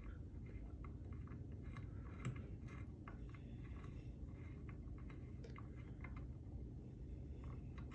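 Faint, irregular light clicks and taps of hand tools and transmission parts being handled, over a low steady hum.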